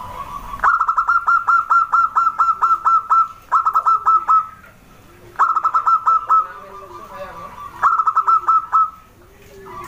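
Zebra dove (perkutut) singing: four runs of rapid, clipped cooing notes, the first the longest at about two and a half seconds, with softer, lower coos in the pauses between runs.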